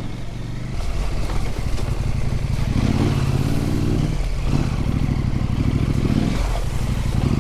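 Husqvarna Norden 901's parallel-twin engine running under load on a dirt trail. The engine note builds in the first second and dips briefly twice, about four and six seconds in, as the throttle is eased off and opened again.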